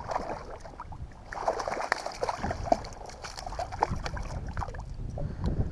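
Water splashing and trickling around a fishing kayak, with a few small knocks, busiest between about one and three seconds in.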